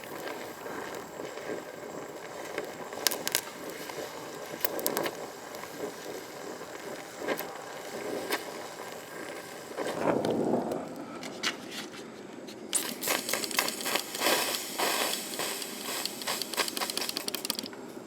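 Electric welder crackling in bursts while welding onto a rusted, broken-off brake bleeder screw to get it out. The crackle is densest and loudest in the last third, after scattered ticks earlier on.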